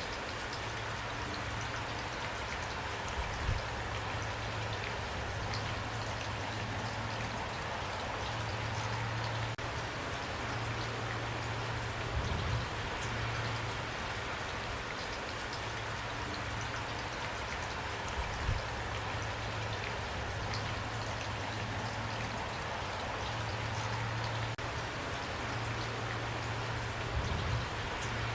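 Steady rain falling, an even patter of raindrops. A few brief low thumps stand out, about four in all.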